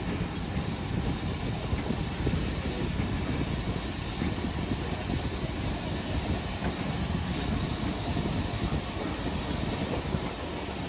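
Steady low rumble of a train in motion, with no separate beats or knocks.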